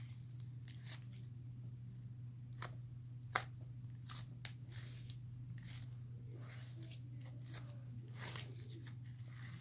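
Borax slime being kneaded and pulled apart by hand, giving irregular sticky clicks and crackles, the loudest about three and a half seconds in, over a steady low hum.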